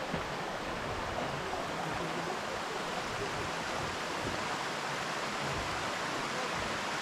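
Steady rushing of a mountain river and waterfall, an even hiss of running water.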